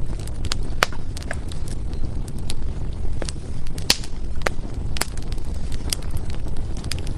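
Burning firewood crackling: irregular sharp pops and snaps over a steady low rumble of the fire, with the loudest pops about four and five seconds in.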